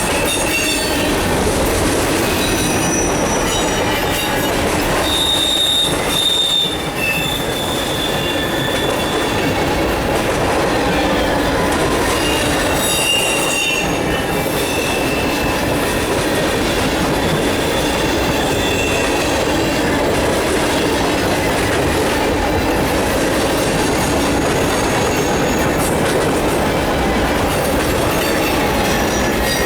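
Freight cars of a mixed freight train rolling past, a loud steady rumble of steel wheels on rail with short high-pitched wheel squeals coming and going.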